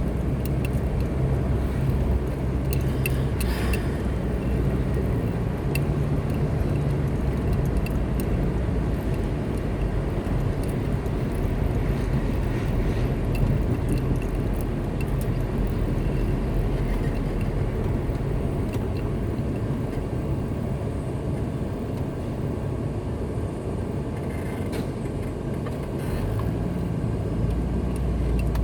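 A car driving along a road: a steady low engine and tyre rumble that eases off through the middle and builds again near the end.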